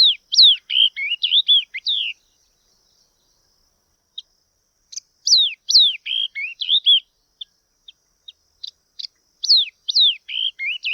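Yellow-eyed babbler calling: three bursts of quick whistled notes that slide down in pitch, each burst about two seconds long, with a few short single notes between the bursts.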